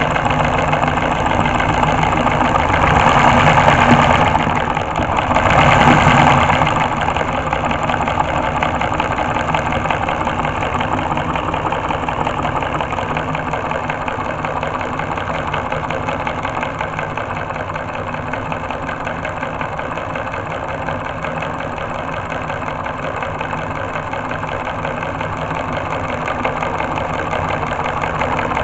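Homemade four-cylinder solenoid engine running, a fast steady clatter from its solenoid-driven pistons and switching contacts. It gets louder twice briefly a few seconds in, then settles back to an even run.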